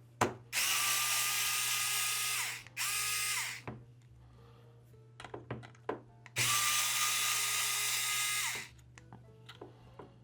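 Small electric screwdriver with a 1.5 mm hex bit backing out screws: three runs of motor whine, about two seconds, then a short one, then about two seconds more, each dropping in pitch as the motor winds down. Small clicks of the tool and parts being handled come between the runs.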